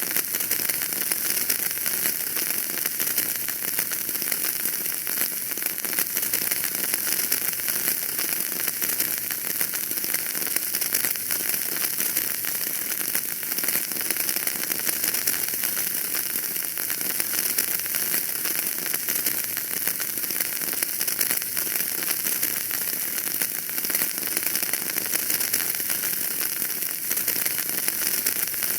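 Wood fire burning in a fireplace, crackling steadily: a dense run of small pops and ticks over a continuous hiss.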